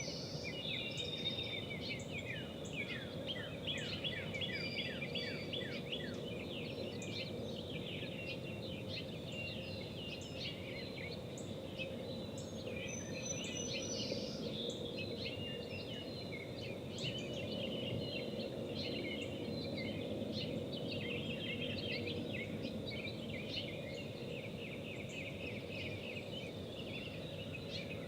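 Songbirds calling over steady outdoor background noise: many overlapping chirps, with quick runs of short down-slurred notes during the first few seconds.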